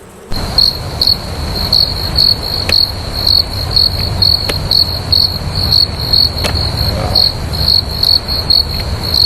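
High, steady insect chirping in even pulses, about three a second, that starts suddenly about a third of a second in, over a continuous low rumble.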